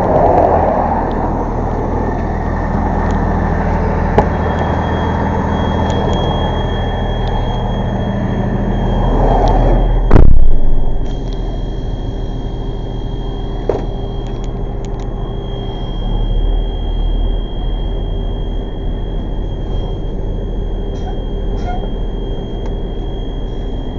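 Tow truck engine running steadily while the truck backs up. A steady high-pitched tone comes in about five seconds in, and there is one loud thump about ten seconds in.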